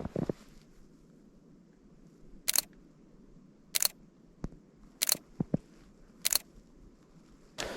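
Sony A7III camera shutter firing four single shots, about a second and a quarter apart, with a few fainter clicks between them.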